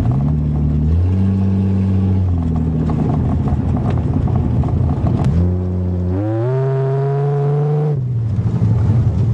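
1982 Toyota Cressida's engine accelerating under load. Its pitch climbs and drops back at each gear change, with one long rising rev near the end that falls away as it shifts.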